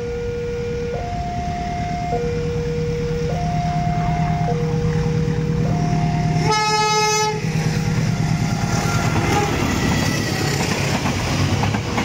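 Railway level-crossing warning alarm sounding two alternating tones, switching about every second, over the steady hum of an approaching diesel locomotive. About six and a half seconds in the alarm stops and the locomotive gives a short horn blast, followed by the noise of the train rolling through the crossing.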